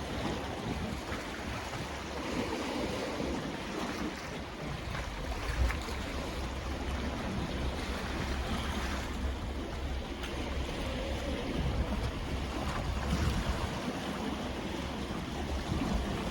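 Sea waves washing in steadily, with a low rumble underneath.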